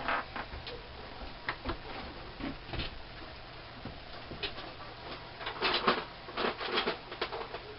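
Scattered clicks and short scrapes of a screwdriver working against the metal parts of a lathe tool post, with a louder, busier run of scraping knocks about two thirds of the way through.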